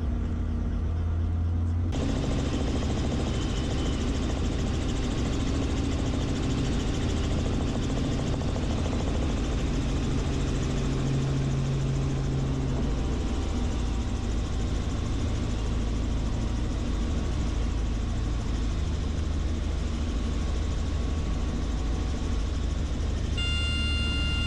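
Training helicopter running through an autorotation practice: a steady low rotor and engine drone, with a wide rushing hiss that comes in about two seconds in. Near the end a steady multi-note tone starts.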